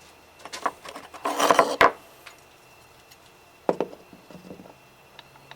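Hand tools and a PVC workpiece being handled on a workbench while a tap is started by hand: a cluster of clicks, knocks and short scrapes from about half a second to two seconds in, then a couple of sharp knocks near four seconds.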